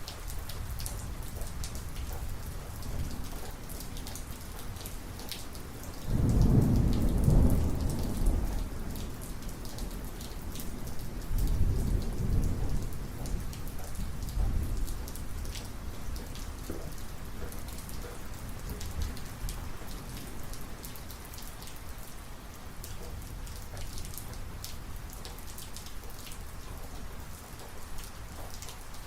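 Thunderstorm: steady heavy rain with thunder rolling in about six seconds in, a second rumble about five seconds later, then dying away under the rain.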